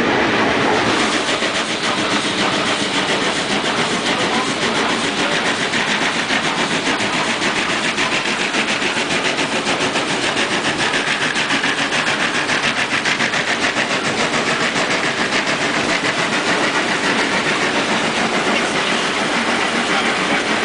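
Steady rushing and rattling of a moving train, heard from on board, with a fast, even clatter.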